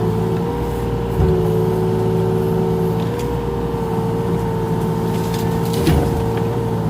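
Mini excavator engine running steadily under work, with a steady high tone over its drone. There is a short clunk about a second in and another near the end as the machine works.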